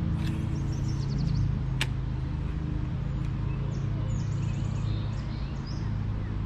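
Steady low mechanical hum, like an engine or traffic, with small birds chirping in short trills over it, and a single sharp click a little under two seconds in.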